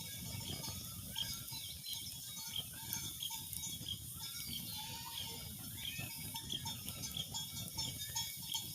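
Many short chirping bird calls scattered throughout, over a steady low rumbling noise.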